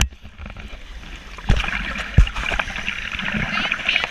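Ocean water sloshing and splashing, growing louder about a second and a half in, with two sharp thumps close to the microphone.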